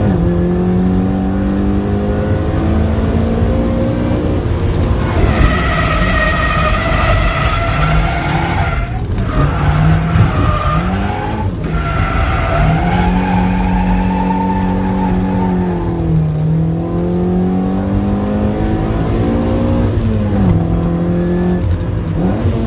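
Toyota AE86 Sprinter Trueno's four-cylinder engine heard from inside the cabin, revving hard and falling back over and over as the car is drifted, with a couple of brief dips in the middle. Tyres squeal through the corners.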